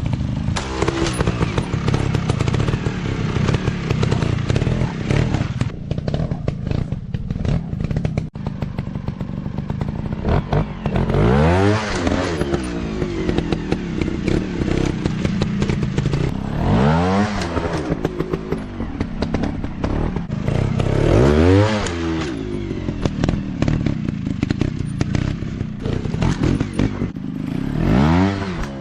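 Off-road dirt bike engines running loudly, with the throttle blipped hard four times, each rev rising sharply in pitch then falling away.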